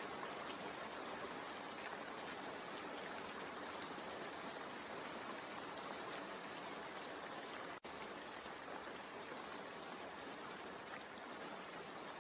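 Steady rain, an even hiss of falling water with faint drop patter, which cuts out for an instant about eight seconds in.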